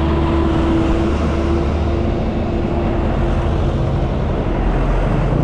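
Small motorcycle engine running while riding. Its steady note breaks up and weakens from about two seconds in, as the tank runs low on fuel just before the rider switches to reserve.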